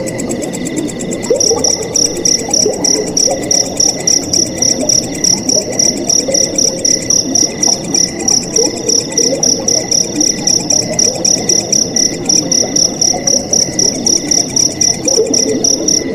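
A cricket chirping in a steady, rapid rhythm of a few chirps a second, starting about a second in, over a low rush of flowing water and fainter insect trills.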